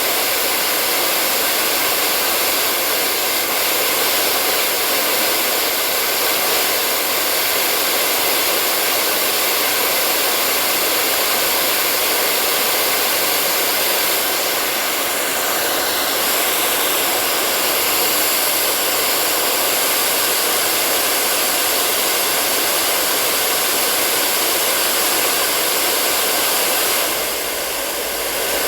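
Hair dryer running steadily, a continuous rush of blown air with a faint steady whine in it. It dips slightly in level near the end.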